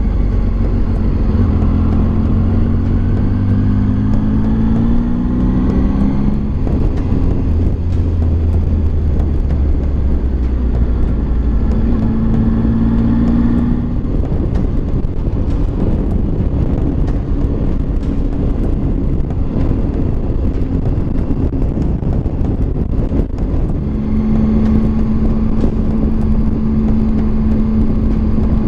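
Motorcycle engine pulling up through the gears, its pitch rising in steps over the first six seconds and again around twelve seconds, then holding a steady note near the end. Heavy wind rush on the microphone throughout.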